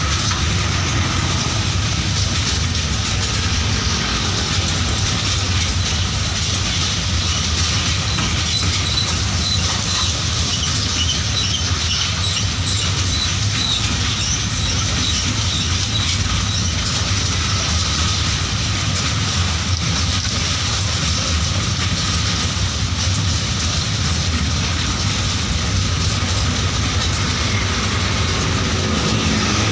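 Container freight train's wagons rolling past, a steady rumble of steel wheels on the rails.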